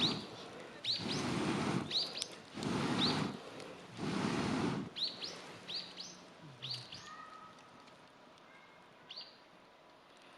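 A small bird calling with short, quick upward chirps, repeated in clusters and thinning out toward the end. Through the first half there are also four bursts of rushing noise, each about a second long.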